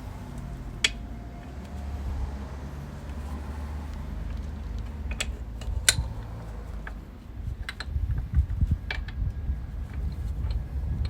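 Scattered sharp clicks and knocks of metal tools and parts being handled during motorcycle rear-wheel work, a few seconds apart, over a low rumble.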